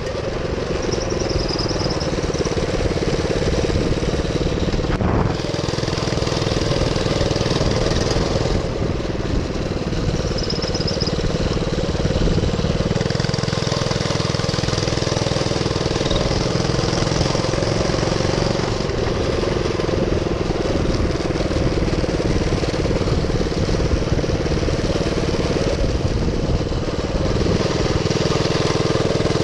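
Minibike's GX200 single-cylinder four-stroke engine running steadily, its pitch drifting up and down a little with the throttle.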